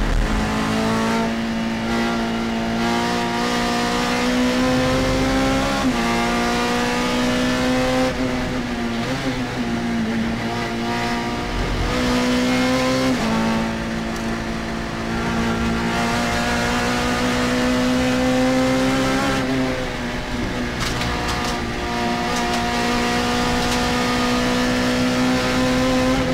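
Alfa Romeo GT race car's engine at racing speed, heard from inside the cockpit: its pitch climbs steadily under throttle and drops suddenly at each upshift, and between climbs it wavers and falls back as the car slows for corners.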